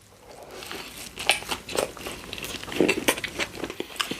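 Close-miked chewing of a Subway sandwich: irregular moist clicks and smacks, with a few fuller bites.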